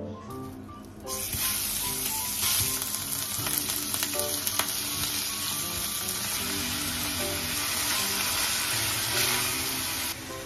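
Minced meat and sliced onion sizzling in hot oil in a frying pan, stirred with a spatula. The sizzle starts suddenly about a second in and stays loud and steady.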